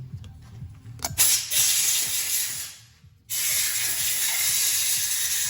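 Two long hissing blasts from a pressurised spray nozzle, with a short break between them, cleaning a freshly lapped engine valve and its seat. A short click comes just before the first blast.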